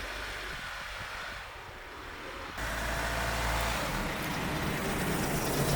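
Road vehicle running and driving: a steady rumble of engine and road noise, which jumps abruptly louder about two and a half seconds in.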